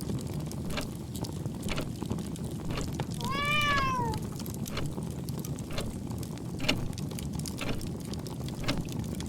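A cat meows once, a single call rising then falling in pitch, about three seconds in. Under it runs a steady low rumble with scattered crackles.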